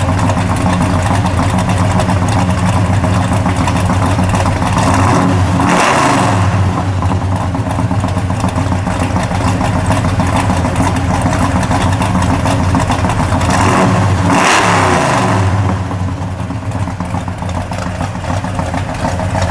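Dodge Charger R/T's 512 cubic-inch stroker V8, about 600 horsepower, running at idle and revved twice, about six seconds in and again about fourteen seconds in, each time falling back to idle; it is a little quieter near the end.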